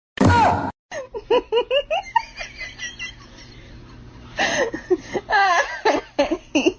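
A short loud noise, then a person laughing in quick repeated bursts of about four a second, louder again near the end.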